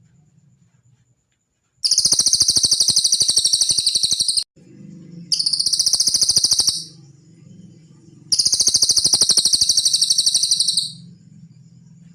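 Cililin bird singing: three loud, rapid trills of high repeated notes, each lasting one to three seconds, with short pauses between.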